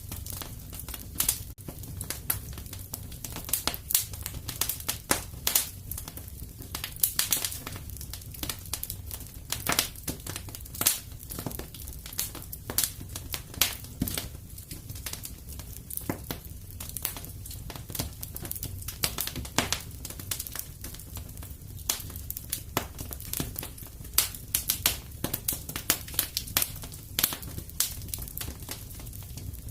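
Fireplace fire crackling: dense, irregular sharp pops and snaps, several a second, over a steady low rumble.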